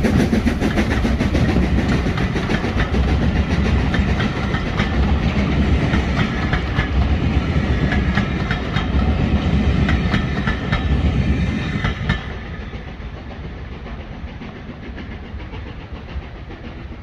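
A train hauled by LMS Black Five steam locomotive 45407 passing close by, its wheels clicking steadily over the rail joints. The noise drops away suddenly about twelve seconds in, leaving a fainter rumble.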